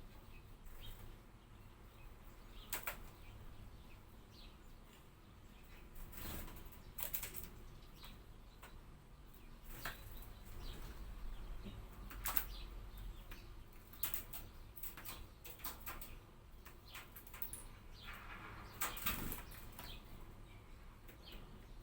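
A hawfinch moving about: scattered brief wing flutters and sharp knocks, with a few faint short chirps.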